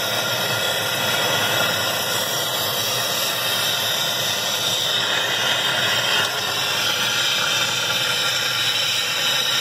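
Gas blowtorch burning with a steady hiss, heating the stuck washing-machine basket hub so it expands and releases from the shaft.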